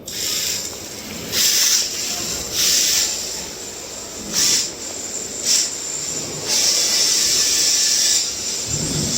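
Mini RC drift car sliding, its small tyres hissing across the track surface in repeated bursts, each under a second to a second and a half long, with one longer slide about six and a half seconds in.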